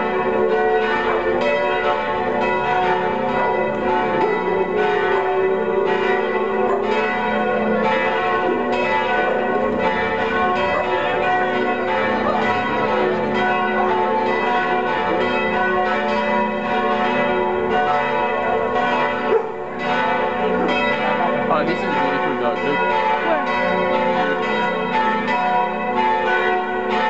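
Church bells pealing, several bells sounding together and overlapping, with strokes falling about once a second and ringing on without pause.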